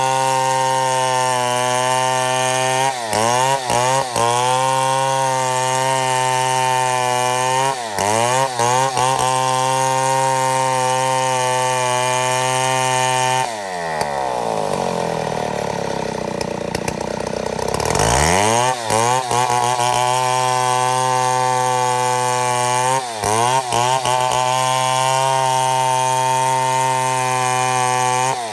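Two-stroke chainsaw held at high revs while milling a mahogany log, the engine note steady with a few brief dips. About halfway through, the revs sag for several seconds and then climb sharply back to full speed.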